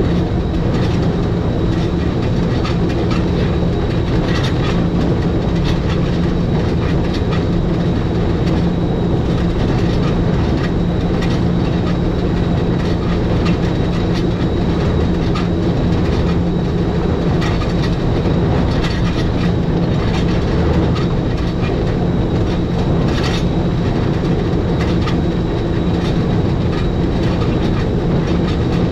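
Electric rack-railway train of the Schynige Platte Railway running downhill, a steady low hum with scattered clicks and knocks from the wheels and rack over the track.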